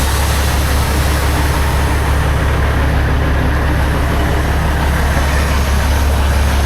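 Heavy diesel semi-truck engine running steadily, a loud deep drone with a broad rushing noise above it.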